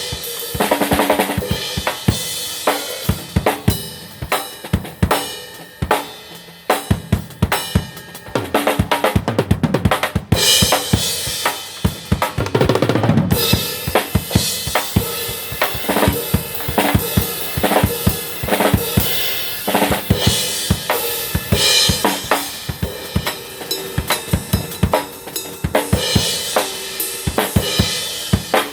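Drum kit played loosely, with bass drum, snare and cymbal hits in quick irregular strokes and a steady cymbal wash over the top.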